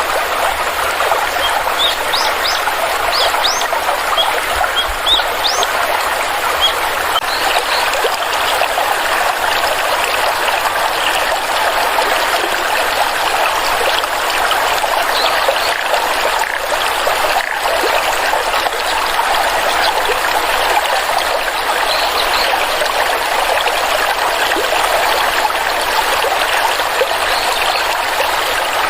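Small stream flowing and trickling steadily. Short high-pitched chirps are scattered through it, most of them in the first several seconds.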